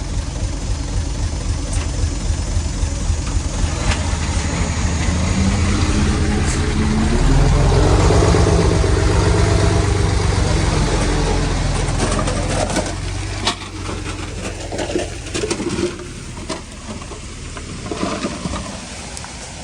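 Heavy-equipment diesel engine working under load, growing louder with a deep throb about halfway through, then easing off. Scattered metallic knocks and clanks follow in the second half.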